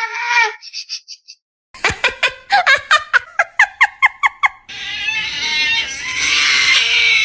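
A run of about a dozen short, quick animal-like calls, each sweeping down in pitch. About five seconds in, a longer, harsher cry follows and then cuts off suddenly.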